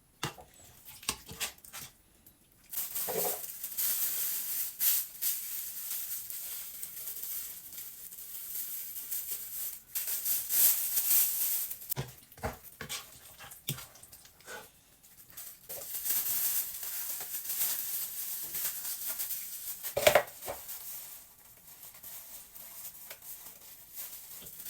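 Thin plastic food bags rustling and crinkling as thick beef soup is spooned into them, with occasional knocks of a spoon against the pot; the sharpest knock comes about twenty seconds in.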